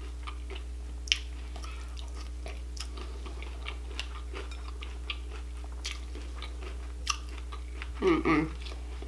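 Close-up chewing and crunching of a mouthful of Honey Bunches of Oats cereal in milk, with a few sharp clicks of a spoon against a glass bowl. A short vocal sound comes near the end.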